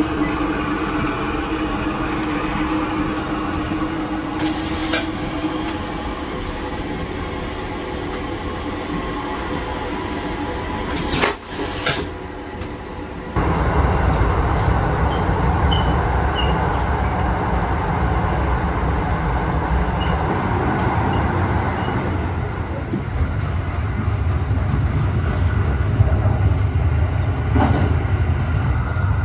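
Running noise of the Limited Express Thunderbird train heard from inside the car, a steady low rumble. About eleven seconds in there is a brief hiss, and soon after the rumble steps up louder and stays so.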